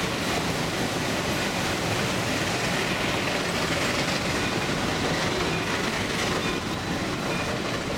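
Open passenger car of a narrow-gauge train rolling along the track, a steady noise of wheels on rail, mixed with the rush of whitewater rapids beside the line.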